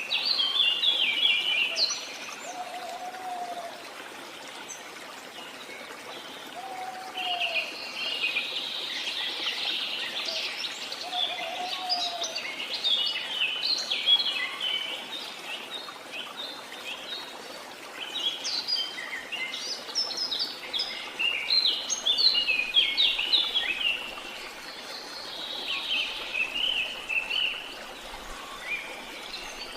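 Several birds singing in fast high chirps and trills over the steady rush of a jungle waterfall. A lower, short whistled call repeats every few seconds in the first half.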